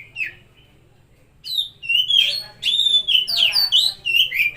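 Oriental magpie-robin (kacer) singing: a short whistled phrase, a pause of about a second, then a fast, varied run of loud whistled notes that slide up and down.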